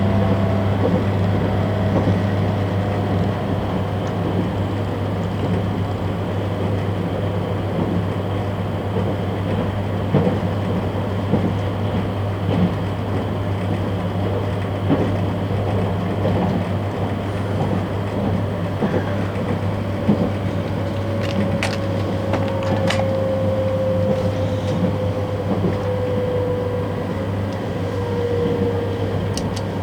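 Cabin sound of a JR 651 series electric train running: a steady hum and rumble. Through the second half a whine falls slowly in pitch, and a few sharp clicks come near the end.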